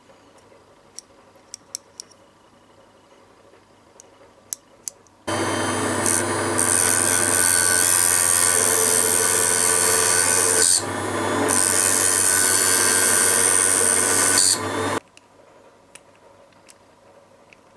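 A few light clicks of handling, then a small power tool starts abruptly, presumably working the lighter's metal parts. It runs steadily for about ten seconds with a brief dip partway through, then stops abruptly.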